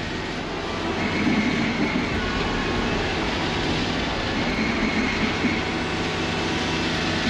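Engine-driven machinery running steadily, a loud, even mechanical noise with faint steady tones through it.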